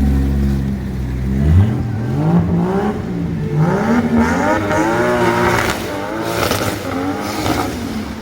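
Car engine running low, then revving from about a second and a half in, its pitch climbing and dropping several times in a row.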